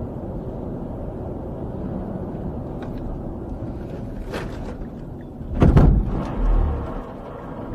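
Steady low rumble of a vehicle, with a sharp knock a little past four seconds in and then a loud heavy thump, the loudest sound, about a second and a half later.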